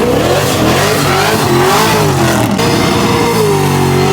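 Car engine revving hard, its pitch swinging up and down again and again, over a loud rushing noise.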